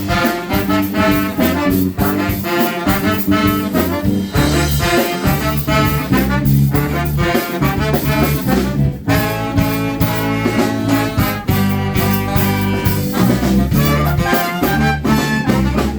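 A live brass band playing: trombones and trumpets blowing lines together over a driving drum-kit beat.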